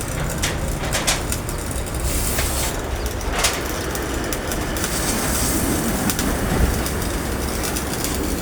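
Steady mechanical rumble with a few sharp clicks, and a high hiss that swells about two seconds in and again over the second half.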